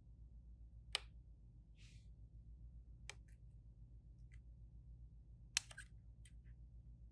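A few light, sharp clicks and taps of small hard tools or parts being handled, the loudest about five and a half seconds in, over a low steady hum.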